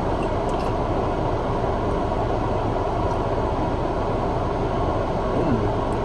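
Steady low rumbling background noise with no distinct events, of the kind a running vehicle or air-conditioning fan makes.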